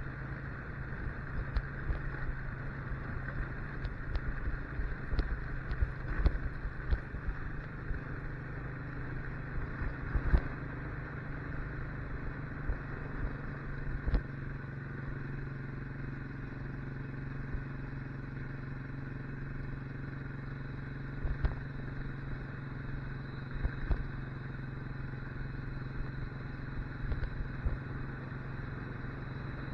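Motorcycle engine running steadily while being ridden, with scattered knocks and rattles, most of them in the first half.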